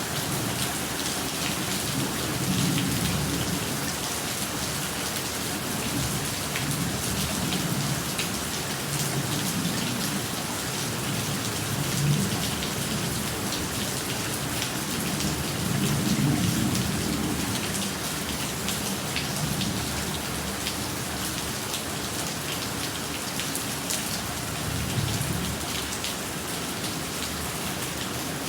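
Steady rain pattering on surfaces, with low rumbles of thunder swelling and fading several times. There is one sharper knock about twelve seconds in.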